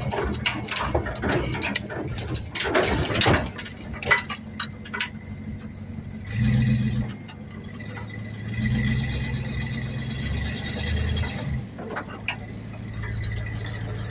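An engine running, swelling up briefly twice with a thin high squeal over it. Sharp metallic clanks and rattles come in the first few seconds.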